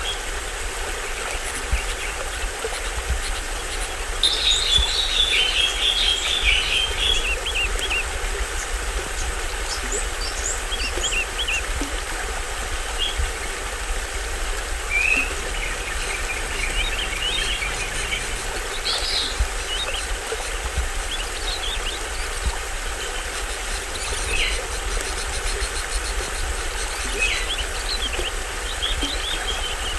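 A small stream spilling over a little waterfall, a steady rush of water, with tropical forest birds chirping and calling over it. A burst of fast bird chatter about four seconds in is the loudest part, with scattered short calls after it.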